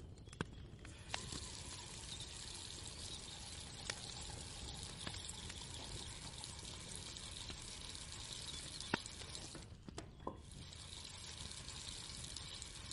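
Water running steadily from a kitchen tap, with a short break about ten seconds in and a few light clicks and knocks scattered through it.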